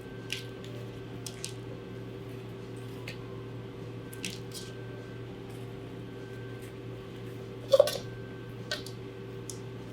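A knife and hands working a bell pepper on a cutting board: scattered soft taps and clicks, with one louder knock about three-quarters of the way through, over a steady low hum.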